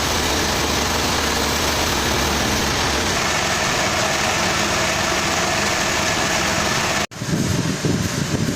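An engine running steadily, cut off abruptly about seven seconds in by a different, uneven low rumble.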